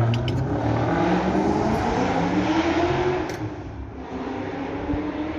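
2010 Camaro SS's 6.2-litre V8 accelerating hard and loud, its pitch rising and then dropping, before the sound falls away about three seconds in as the car pulls off.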